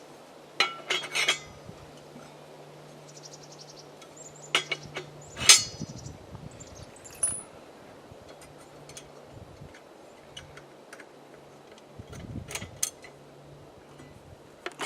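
Steel cultivator tines, washers and a cotter pin clinking and clanking as they are fitted onto the tiller's axle by hand, in several short bursts, over a steady low hum.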